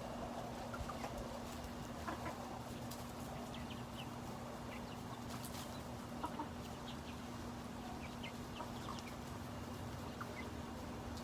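Chickens clucking, with scattered short calls, over a steady low hum.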